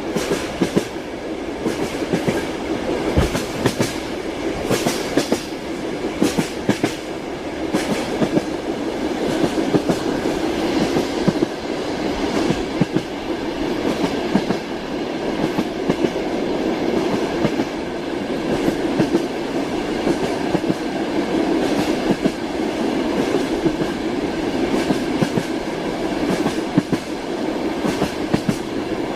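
Train wheels clacking over the rail joints, heard from inside a moving carriage: a steady rumble with frequent sharp clicks, thickest in the first several seconds.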